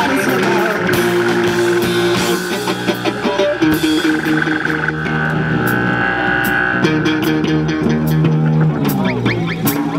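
Live rock band playing a guitar-led passage, with bass and drum hits underneath.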